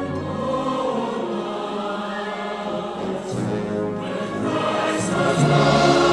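A choir singing held chords in several voice parts, with a few sung 's' sounds along the way.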